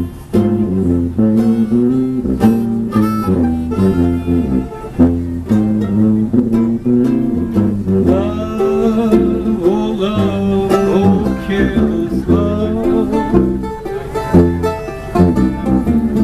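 Acoustic trio of tuba, mandolin and harmonica playing an instrumental break of an old blues tune. The tuba walks a bass line of stepping notes under picked mandolin, and about halfway through a lead of held, wavering notes comes in over them.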